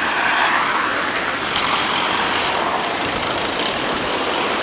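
Road traffic noise: a car passing, its tyre noise fading over the first second, over a steady background of traffic.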